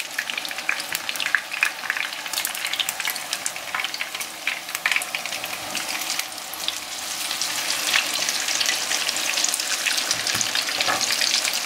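Breadcrumb-coated eggplant strips frying in hot oil in a frying pan: a steady sizzle full of small crackles. It grows louder about halfway through, as the strips are turned over onto their uncooked side.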